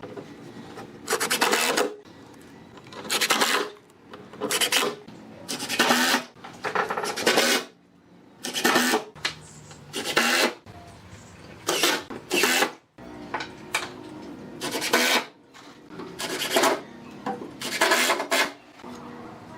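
Repeated hand strokes of an abrasive tool on wood, about a dozen rasping strokes each under a second long at an uneven pace, over a low steady hum.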